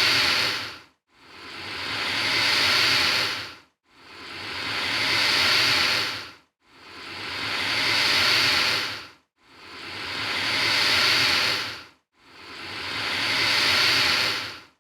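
Alligator hissing: a breathy hiss that swells over about two and a half seconds, then cuts off sharply. It comes again after a brief silence at an even pace, about five times.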